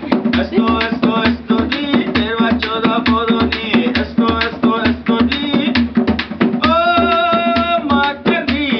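Music played on a hand drum with a quick, even beat over a steady drone. A held melodic note, sung or played, comes in about seven seconds in.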